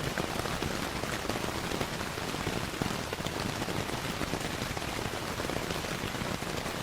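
Steady rainfall blended with a crackling wood fire: an even hiss dotted throughout with small, sharp pops and ticks.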